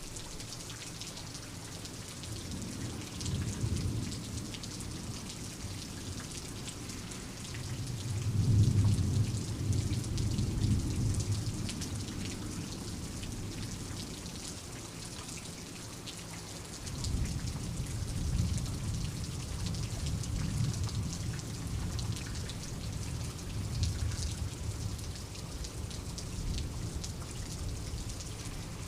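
Steady rain pattering, with low rolls of distant thunder: a short one early on, the loudest about eight seconds in, and a long rumbling spell in the second half.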